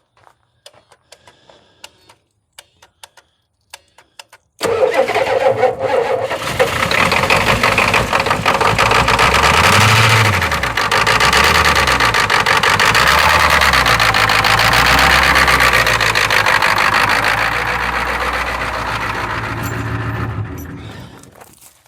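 A 1991 Ford's 7.3 L IDI V8 diesel catches on a cold start about four seconds in and runs unevenly, its pitch rising and falling, for about sixteen seconds. It then dies away near the end, as the oil filter's seal blows out.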